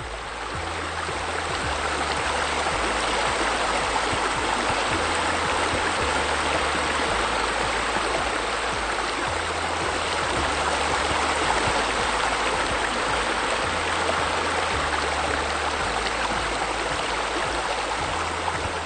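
Steady rush of running, splashing water like a stream or waterfall, swelling in over the first couple of seconds, with a slow bass line of background music underneath.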